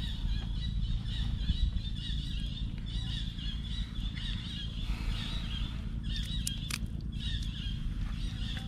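Birds calling in a continuous high chirping over a steady low rumble, with a few sharp clicks about six and a half seconds in.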